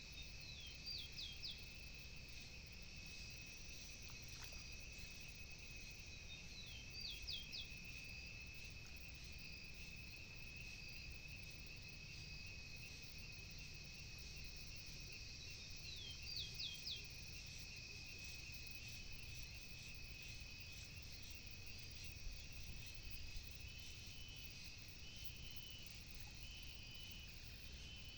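Faint outdoor ambience: a steady high insect drone runs throughout, and birds call over it. The calls come as quick runs of three or four notes three times, with scattered single chirps between them.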